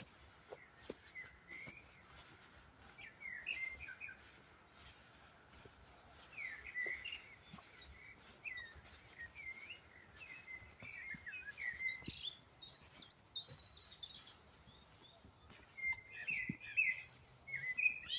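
Songbirds singing in a wood: a string of short chirping and warbling phrases, busiest about 6 to 12 seconds in and again near the end.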